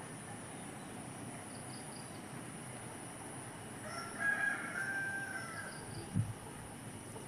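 A rooster crowing once, about four seconds in, over a steady high insect drone, with a brief low thump near the end.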